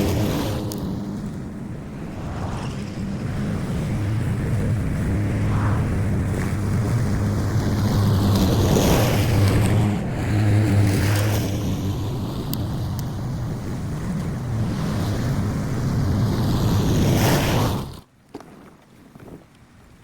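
Gas lawn mower engine running steadily while cutting wet, overgrown grass, with its hum rising and falling under load. It stops abruptly near the end.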